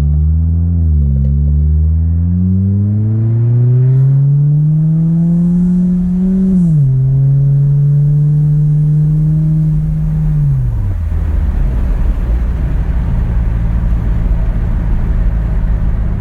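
2012 Ford Fusion's 2.5-litre four-cylinder breathing through a Magnaflow 10416 muffler, heard inside the cabin: the engine note climbs as the car accelerates, drops at a gear change about seven seconds in, then falls away about eleven seconds in, leaving steady road and wind noise. The exhaust drone in the cabin is, by the driver's judgment, not that bad.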